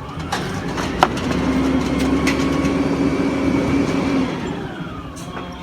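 Peterbilt 320 garbage truck engine revving up and holding a steady pitch for about three seconds, then settling back near the end. A sharp clank comes about a second in.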